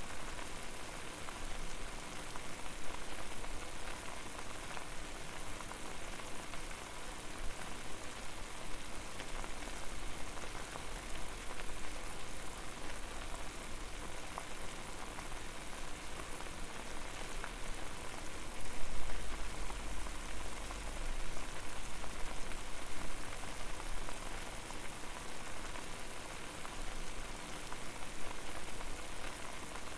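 Water boiling over a fire: a steady, dense bubbling and popping hiss, with a louder low rumble swelling about two-thirds of the way in.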